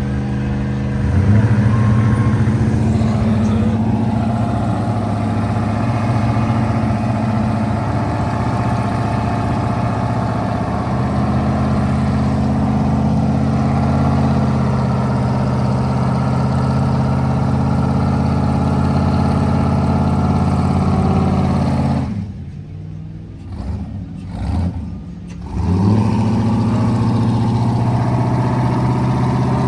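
A vehicle engine running steadily with a low, many-pitched hum, swelling briefly about a second in. About three-quarters of the way through it drops away sharply for a few seconds, then comes back.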